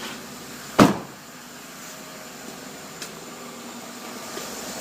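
A single loud thump about a second in, then the steady hum of the 2011 Chevrolet Tahoe's 5.4-litre Vortec V8 idling.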